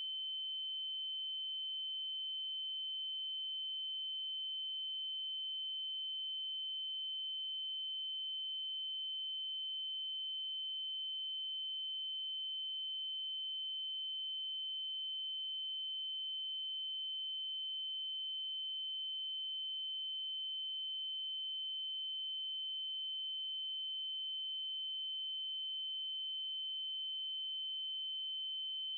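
Synthesized 3072 Hz triangle-wave tone, held at one steady pitch and level, with a faint tick about every five seconds.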